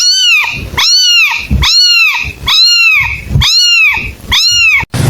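Kitten mewing over and over, about two short high-pitched mews a second, each rising then falling in pitch, cutting off abruptly near the end.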